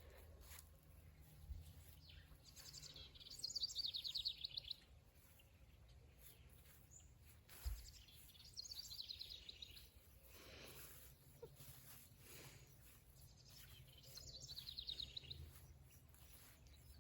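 Faint songbird song: three short phrases of rapid, evenly repeated high notes, a few seconds apart, over a low steady rumble.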